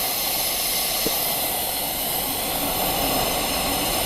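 Aida Express pressure lantern burning, its burner giving a steady hiss; the freshly repaired lantern is running well.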